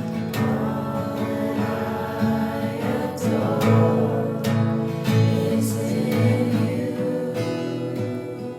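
Worship music: acoustic guitar strumming with several voices singing together.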